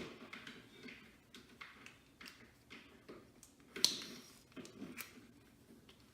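Light rustling of hair and small clicks from handling a clamp curling iron, with a sharper click about four seconds in and another about a second later.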